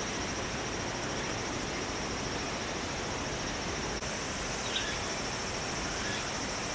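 Steady outdoor ambience: a constant high insect trill over an even hiss, with a couple of short faint chirps about five seconds in.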